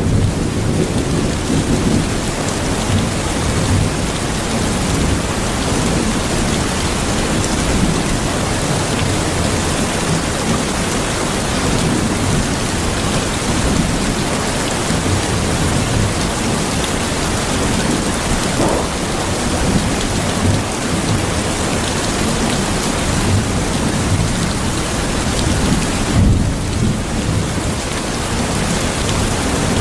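Steady heavy rain with irregular low rolls of thunder rumbling underneath. The rain hiss thins briefly near the end.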